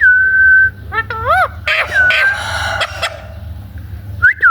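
Parrot whistling: a long steady whistle, then quick rising-and-falling whistled swoops, then a harsher, rasping call about two seconds in, with whistles starting again near the end.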